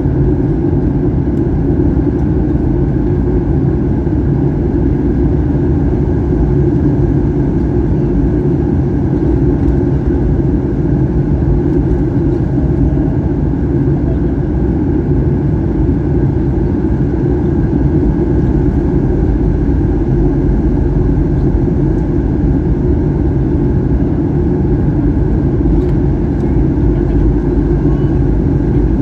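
Steady cabin noise of a Boeing 737-800 in flight: its CFM56 jet engines and rushing airflow make a constant deep drone, with faint steady tones above it.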